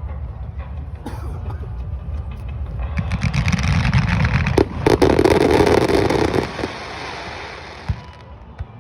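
Fireworks display: a low rumble of bursts, then a dense wash of crackling that swells about three seconds in, peaks with a heavy bang, and fades away, with one sharp pop near the end.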